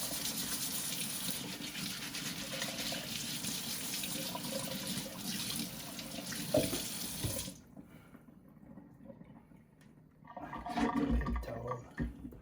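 Warm water running steadily from a sink tap as deer antlers are rinsed clean of soap and dirt, cutting off suddenly a little past halfway when the tap is shut; a short burst of knocks and rustles from handling follows near the end.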